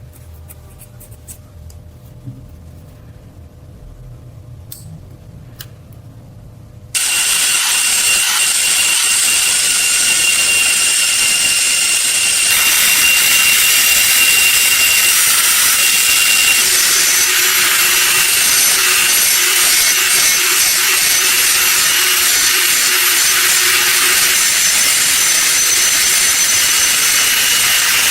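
Small handling clicks, then about seven seconds in an abrasive power tool starts up suddenly and runs steadily on the workpiece with a loud, hissy, high-pitched rasp. It gets a little louder about five seconds later.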